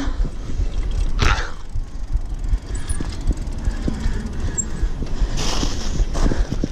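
Bicycle being ridden over rough ground: a steady low rumble with rattling and small knocks from the bike, and wind buffeting the microphone.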